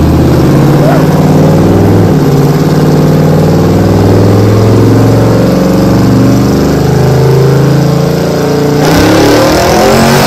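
Twin-turbocharged 6.0-litre V8 of a 1941 Chevy pickup running hard under full throttle on a chassis dyno during a power run. It is very loud, and its pitch holds and then shifts in steps. About nine seconds in, a loud rushing noise joins the engine sound.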